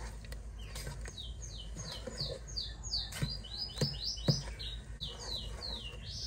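A bird singing a fast run of short, high, falling chirps, about four a second, over a few sharp knocks of a wooden spoon against the pot as thick fruit jam is stirred.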